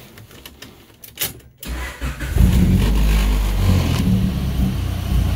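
Honda F23 2.3-litre four-cylinder, swapped into a Civic, being started: a few clicks, then it cranks briefly and fires right up about two seconds in. It then settles into a steady idle.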